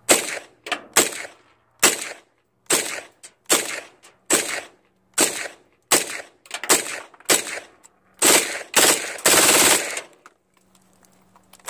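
9mm PTR 9CT (MP5-clone) firing unsuppressed with steel-cased 115-grain ammunition: sharp single shots at a steady pace of roughly one a second, quickening into a rapid string of shots near the end.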